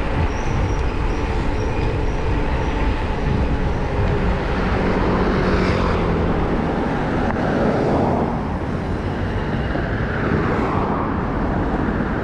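City street traffic heard from a moving bicycle: motor vehicles running close by, with a steady rush of wind and road noise. A vehicle engine passes and fades about halfway through. Near the start comes a run of short, high beeps.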